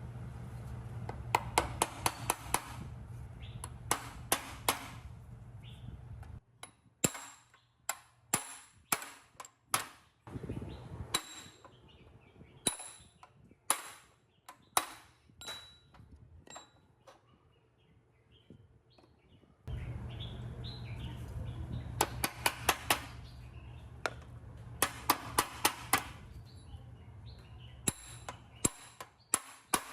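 Metal parts being worked by hand: repeated sharp metallic taps and clinks, each with a short ring, at times in quick clusters. A steady machine hum runs under them for the first six seconds, stops, and starts again about twenty seconds in.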